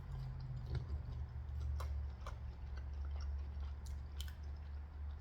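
A person chewing food close to the microphone, with scattered small wet mouth clicks, over a steady low hum.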